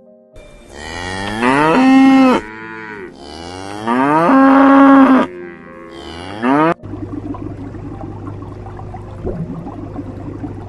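Large farm animal calling: two long, drawn-out pitched calls that rise in pitch, then a short third call. The calls cut off suddenly, followed by a steady low hum.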